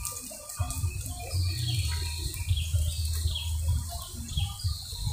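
A small bird calls repeatedly, about four short high notes, each sliding down in pitch and about a second apart, starting about a second and a half in. A steady low rumble runs underneath.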